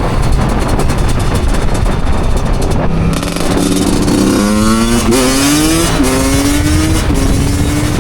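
Two-stroke motorcycle engine running low and uneven, then revving up hard, with three quick drops in pitch as it shifts up through the gears.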